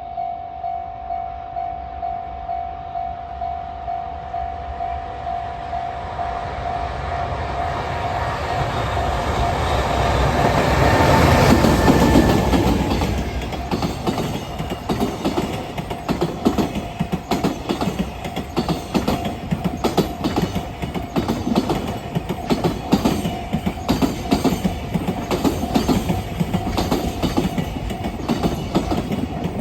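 Express container freight train passing. A pulsing warning tone beats about twice a second at first. The train's sound builds to its loudest about twelve seconds in as the locomotive goes by, followed by a long run of container wagons with their wheels clacking steadily over the rail joints.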